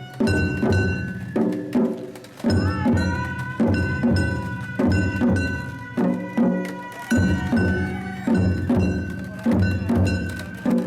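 Japanese festival float music (hayashi): a bamboo transverse flute holds high notes over steady taiko drum beats, about one and a half beats a second.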